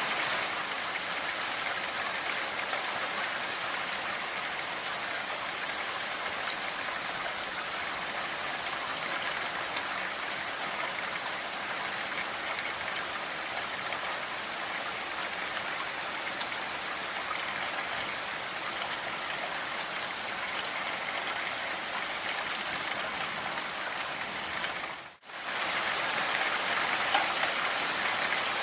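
Steady rain falling as an even hiss of many drops. The sound drops out for a moment about 25 seconds in, then comes straight back.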